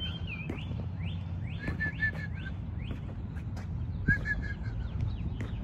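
Songbirds chirping and calling: runs of short repeated notes and quick upward-sweeping whistles, with several singers overlapping.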